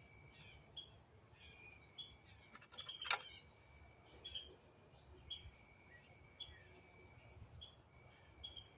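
Faint outdoor background of short high bird chirps, repeating about twice a second, over a steady faint insect drone. A single sharp click about three seconds in.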